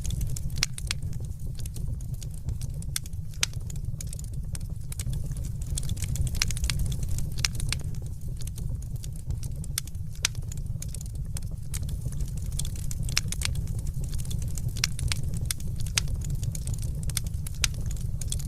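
Wood fire crackling: frequent sharp pops and snaps at an uneven pace over a steady low rumble.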